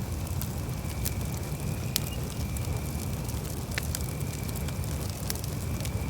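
Campfire burning: a steady low rumble with sharp crackles and pops every second or so, and a faint thin high tone that comes and goes.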